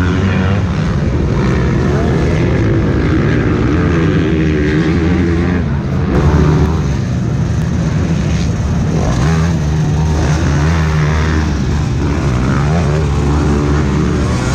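Several motocross bikes' engines revving, their pitch rising and falling as they accelerate and shift gears around the track.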